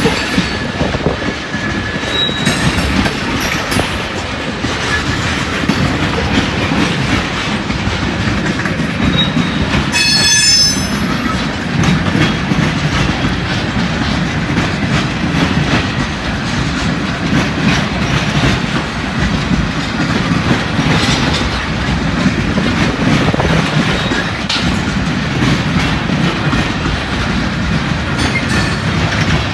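Freight train cars rolling past at close range, wheels clacking over the rail joints in a steady heavy rumble. A brief high-pitched wheel squeal comes about ten seconds in. Gusting wind is heard on the microphone.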